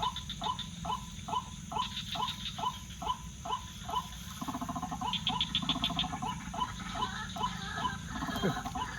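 Night animal chorus: a short, rising call repeated evenly about twice a second, with bursts of high insect chirping above it. About four seconds in, a lower, buzzier pulsing call joins.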